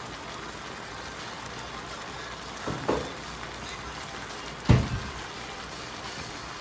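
Chicken strips simmering in sauce in an electric skillet: a steady sizzling, bubbling hiss. Two short thumps break through it, one a little before the middle and a louder one about two-thirds through.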